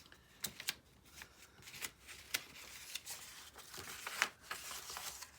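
Pieces of paper and card being sorted through and handled: a string of crisp, irregular rustles and light taps.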